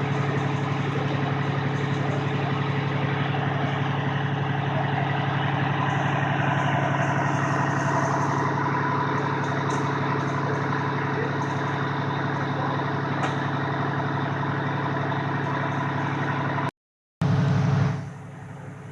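Heavy vehicle engine idling steadily, a constant low hum with no change in pitch. About 17 s in it cuts out for half a second; it comes back louder and drops sharply about a second later.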